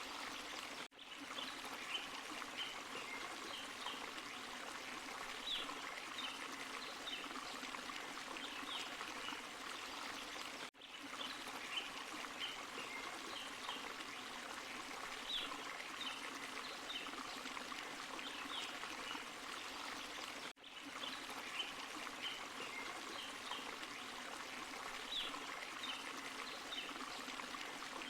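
Forest stream and small waterfall running steadily over rocks, with small splashes and plinks on top. The sound briefly drops out three times, about every ten seconds.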